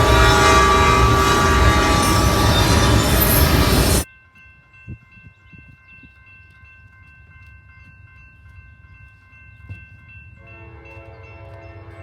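Train passing close with its horn sounding, loud and full, stopping abruptly about four seconds in. After that only faint steady high tones remain, and near the end a faint pulsing pitched sound comes in.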